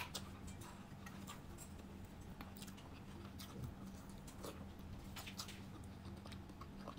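Faint, scattered small clicks and smacks of a person chewing food with her mouth closed, over a low steady hum.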